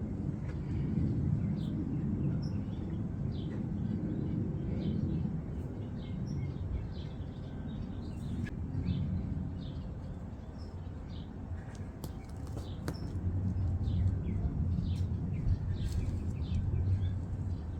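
Small birds chirping in short scattered calls over a steady low background rumble.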